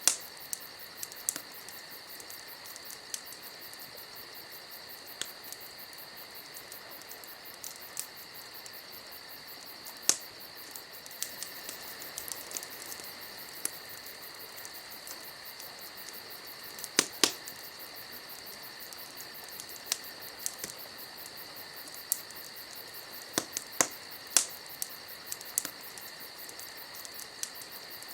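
Wood fire crackling: irregular sharp pops and snaps, a few louder ones about ten, seventeen and twenty-four seconds in, over a steady high hiss.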